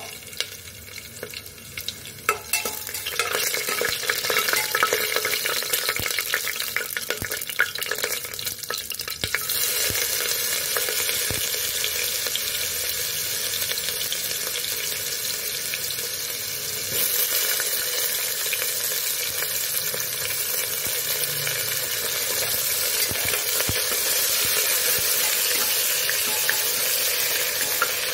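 Whole spices crackling and popping in hot oil in a steel pot. About a third of the way in, chopped onion and ginger-garlic go in and the sound becomes a steady, louder sizzle, which is stirred with a slotted spoon.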